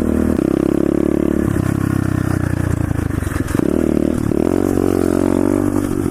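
125cc SSR pit bike's single-cylinder four-stroke engine running under throttle while being ridden, its note stepping to a new pitch several times as the revs change and the rider shifts, dipping and climbing again a little past halfway.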